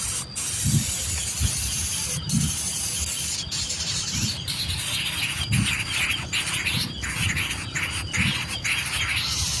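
Baby birds chirping, a dense run of rapid high calls that starts about four seconds in, over a steady hiss. Dull low thumps come regularly, a little under a second apart.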